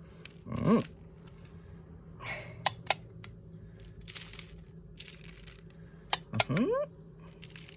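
Light handling sounds of breadcrumb topping being spread by hand over chicken pieces: a soft rustle and a few sharp clicks against the dish. A brief hummed voice sound comes near the start and again near the end.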